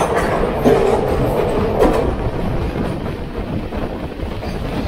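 Running noise of a moving passenger train heard at an open coach door, loud and steady, with a couple of sharp knocks from the wheels in the first two seconds.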